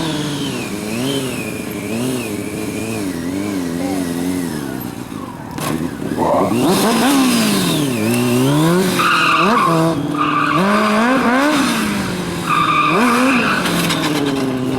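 Motorcycle engine revving up and down during a drift, getting louder about six seconds in with sharp rises and falls in revs. Tyre squeal comes in several stretches in the second half as the rear tyre slides.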